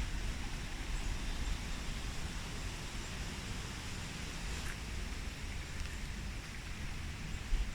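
Steady outdoor ambience: an even hiss with a fluctuating low rumble of wind on the microphone, and a faint tick about four and a half seconds in.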